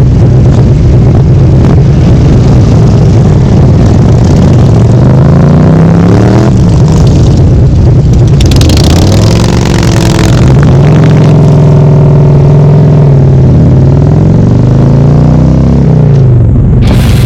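Motorcycle engine running hard under acceleration, its pitch climbing and then dropping back several times as it shifts or changes speed, with a falling pitch near the end.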